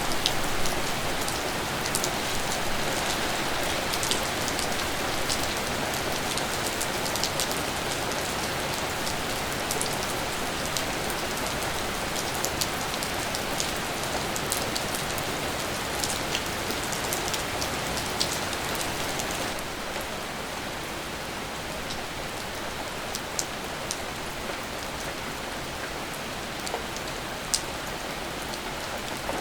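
Steady rain, with individual drops ticking sharply against a surface through the constant hiss. The rain falls a little softer about two-thirds of the way through.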